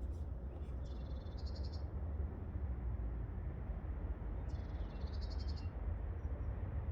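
A high-pitched trilling animal call, heard twice, each a rapid pulsing trill of about a second, over a steady low rumble.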